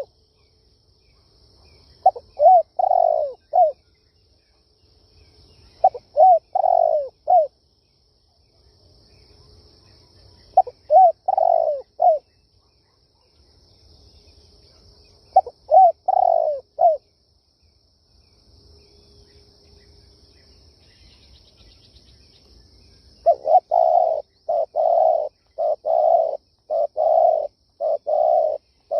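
Spotted dove cooing: short phrases of three or four low coos every four or five seconds, breaking near the end into a quicker run of short coos about twice a second.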